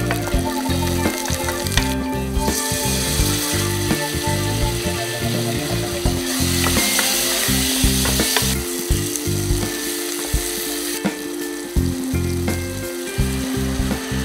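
Onions and spice paste sizzling as they fry in hot oil in an aluminium pot, with a wooden spatula stirring and clicking against the pot. The sizzle swells louder for a few seconds in the middle and again near the end. Background music plays underneath.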